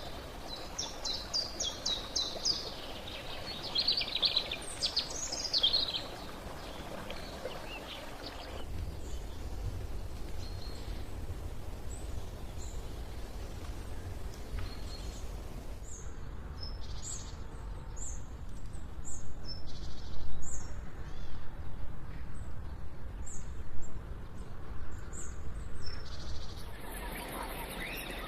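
Forest ambience with birds calling: a flurry of high chirps in the first few seconds, then a steady low background hum, then short, sharp high chirps repeating about once a second through the second half.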